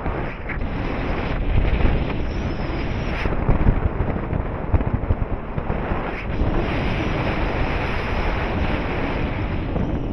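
Loud wind buffeting the microphone in paraglider flight, a dense rushing noise that swells and eases in gusts.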